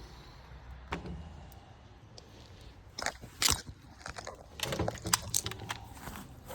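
Clicks and clatter of small hard objects being handled: a single sharp click about a second in, then scattered groups of clicks around three seconds in and again from about four and a half to six seconds.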